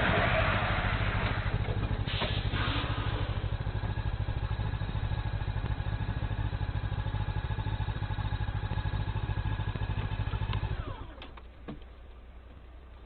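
An engine running steadily with a rapid even pulse and a few knocks, then cutting out about eleven seconds in, its pitch falling as it stops.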